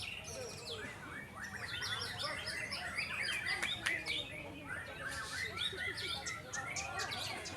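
White-rumped shama (murai batu) song: dense, rapid runs of chirps and whistles, several birds singing over one another.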